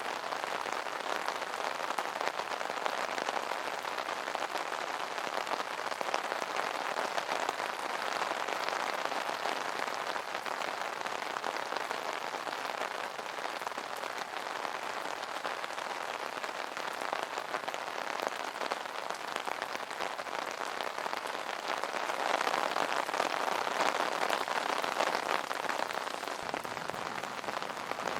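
Steady rain pattering on an umbrella canopy, a dense even patter of drops that swells slightly in intensity about two-thirds of the way through.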